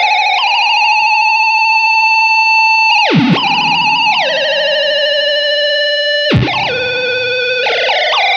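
Electric guitar played through an EarthQuaker Devices Data Corrupter PLL synth pedal on its vibrato setting, producing buzzy synth tones rich in overtones. Two new notes are picked, about three and six seconds in; each sweeps sharply down in pitch before settling into a held tone, and the pitch wavers near the start and end.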